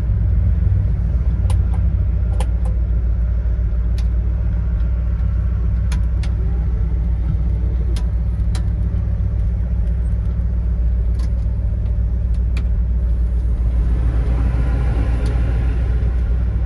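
Ford 460 V8 with headers idling steadily, a deep even rumble, with a few faint clicks over it.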